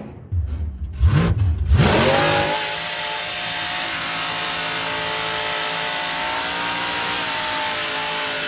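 A vehicle's engine revs up and down in sharp bursts, with brief cuts, in the first couple of seconds. It then holds a steady high-revving note over a constant hiss.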